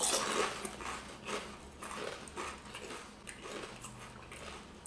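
Chewing a mouthful of kettle-cooked potato chips: irregular crunches, frequent at first and thinning out over the last couple of seconds.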